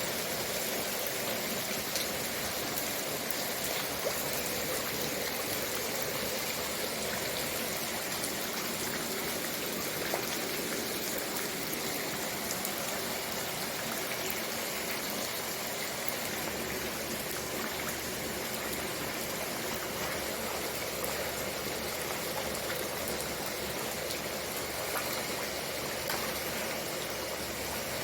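Steady rush of heavy rain falling on the water of a fish tank, with a few faint drop ticks.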